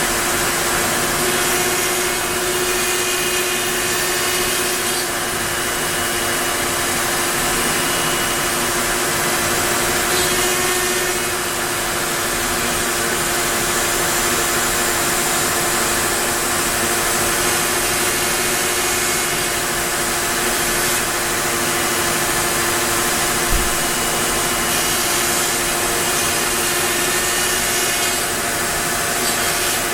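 Onefinity CNC router spindle running steadily as the bit cuts into wood: a constant whine over a loud, even hiss, with one short low thump about three quarters of the way through.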